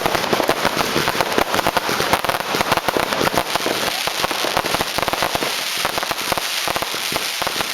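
New Year's Eve fireworks: a dense, continuous barrage of firecrackers and rockets banging and crackling in quick succession, with no pause.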